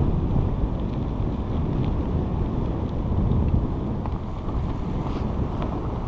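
Wind buffeting the microphone on a moving bicycle, a steady low rumble mixed with tyre noise from the trail, with a few faint clicks.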